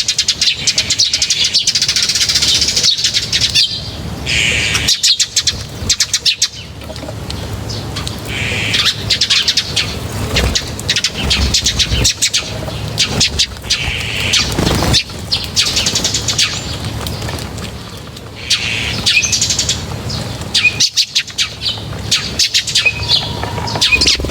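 A flock of small birds chirping and twittering, with dense, rapid chirps coming in several louder spells.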